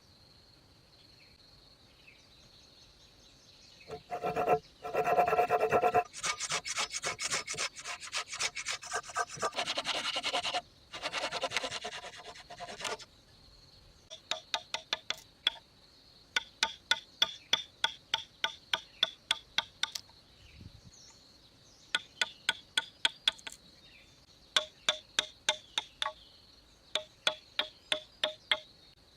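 Rhythmic scraping or rasping strokes on wood: a dense run of fast strokes, then short bursts of several sharp strokes each, over a steady insect drone.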